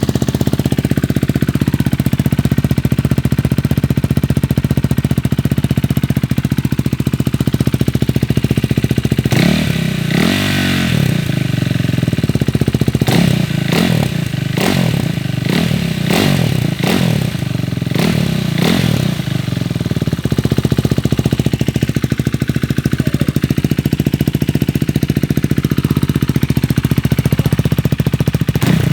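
KTM Duke 390's single-cylinder engine running with its muffler removed: it idles steadily, is revved once about a third of the way in, then gets a string of short throttle blips about one a second before settling back to idle.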